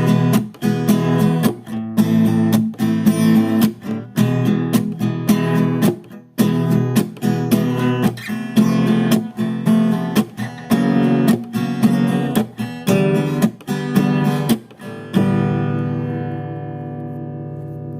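Acoustic guitar strummed in a steady rhythm, ending about fifteen seconds in on a final chord that is left ringing and slowly fades.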